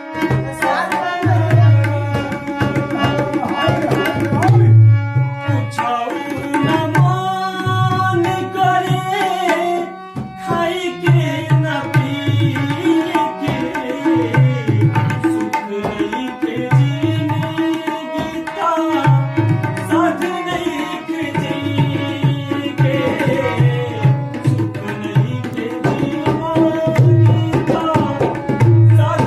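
Instrumental music: a tabla-style hand drum playing a steady rhythm of deep strokes under a held melodic line.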